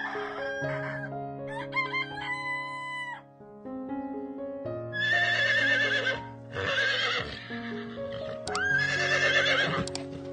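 A rooster crowing with a long held final note, then a horse whinnying in three quavering calls, over background music.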